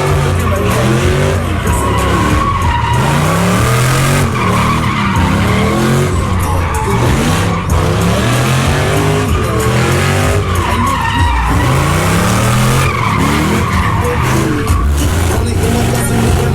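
Pickup truck engine revving hard, its pitch climbing and dropping again and again, while the spinning tyres skid and squeal on pavement in a burnout and drift run.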